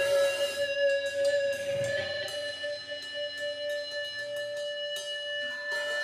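Live rock band playing, an electric guitar holding a ringing sustained note, with scattered sharp drum or cymbal taps. The audio is raw, unedited phone-recorded sound.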